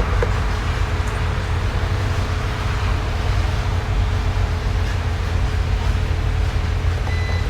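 Steady low mechanical rumble with a faint steady hum over it.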